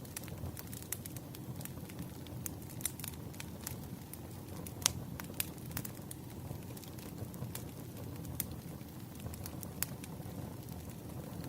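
Firewood burning: a steady low rumble of flames with frequent sharp crackles and pops, the loudest pop about five seconds in.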